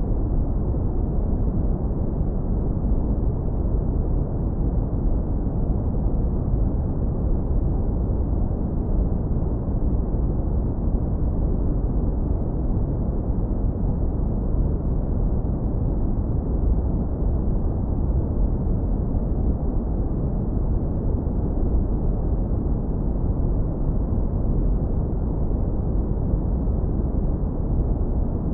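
Synthetic brown noise, heavily low-pass filtered into a deep, warm, steady rumble with no highs. It holds the same level throughout, with no events or changes.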